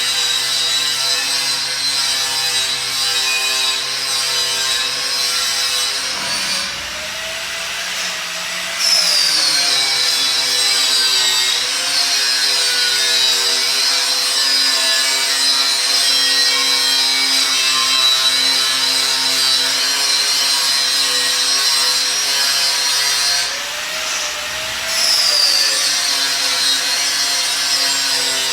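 Handheld electric power tool running steadily with a high whine while working metal. Twice, about six and twenty-three seconds in, the high grinding sound drops out for a couple of seconds and comes back, as the tool is lifted off and set back on the work.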